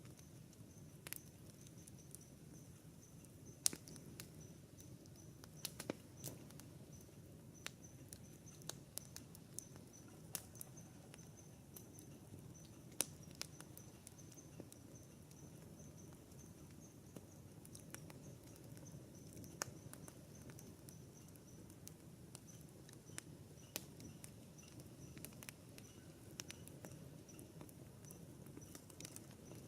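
Campfire wood crackling: irregular sharp pops and snaps, a few louder, over a low hiss of burning. A faint high, steady pulsing buzz runs underneath.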